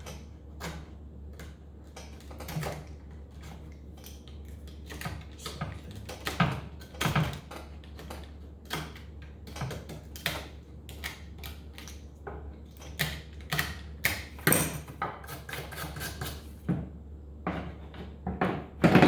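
A blade chipping and scraping a brittle old glue layer off the wooden end of a piano keystick: irregular sharp cracks and short scrapes, a few louder than the rest, as the glue cracks like ice. A steady low hum runs underneath.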